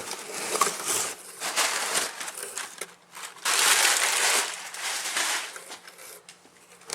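Packaging being handled while a box of transmission seals is unpacked: repeated crinkling and rustling, loudest about halfway through.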